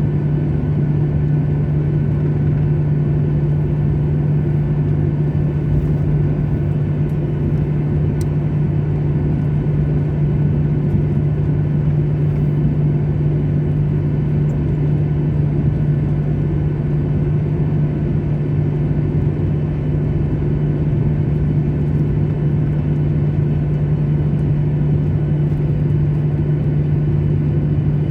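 Steady drone of an airliner's jet engines heard from inside the passenger cabin, a low hum over an even rush of noise.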